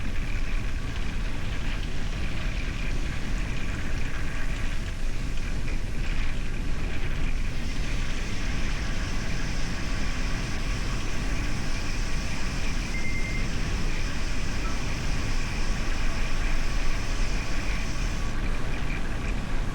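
Gravel bike riding: steady wind rush on the microphone and tyres rumbling over gravel. A higher hiss joins about eight seconds in and stops near the end.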